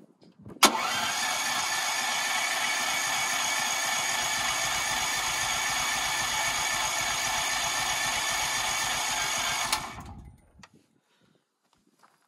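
Hyundai HYD-G-5500W petrol generator's engine: a sharp click about half a second in, then a loud, steady, whiny mechanical run for about nine seconds that cuts off abruptly and dies away, heard during a cold-start attempt.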